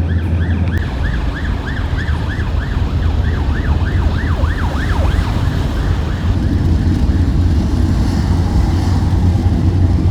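Emergency vehicle siren in fast yelp mode, a tone sweeping up and down about three times a second, fading out about six seconds in. Beneath it, a loud low rumble of city traffic.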